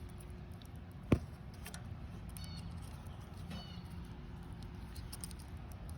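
A steel feeler gauge blade being worked into the exhaust valve gap of a Briggs & Stratton engine: one sharp metallic click about a second in, then a couple of brief squeaks and faint ticks as the blade is pushed in. The 0.010 in blade is a little tight in the gap.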